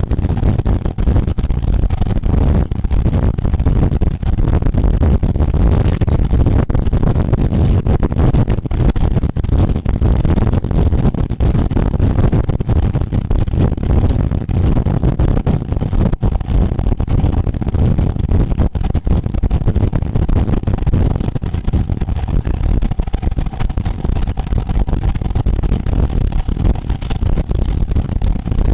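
Wind buffeting the microphone of a camera carried at road-race speed on a bicycle: a loud, constant low rumble that flutters without a break.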